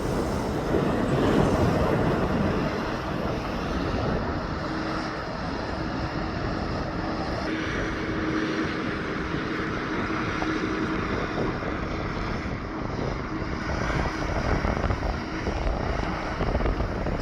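Heavy truck traffic: engine and tyre rumble of trucks on the road, loudest in the first couple of seconds, then steadier, with a steady hum joining in from a few seconds in until near the end.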